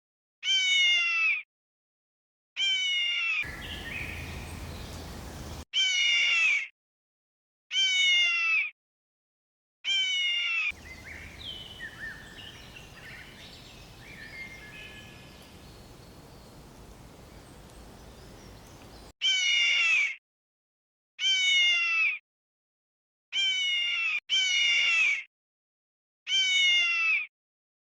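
A meow-like animal cry, about a second long and falling in pitch, repeated roughly every two seconds. It stops for a stretch in the middle, where a quieter, noisier recording with faint chirps takes its place.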